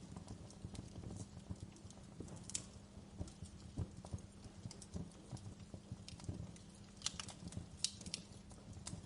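Wood fire crackling in a fireplace: a low steady rumble with frequent small clicks and a few sharper pops, the loudest near the end.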